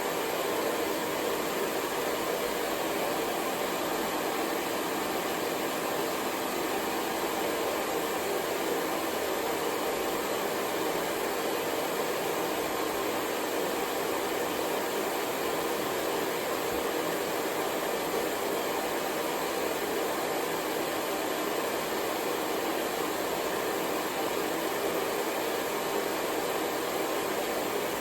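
Hair dryer blowing steadily, a constant whooshing hiss with no change in speed or pitch.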